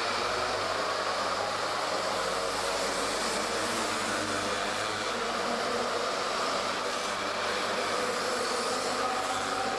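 Mini moto engines running at racing speed, a steady high buzz with no break.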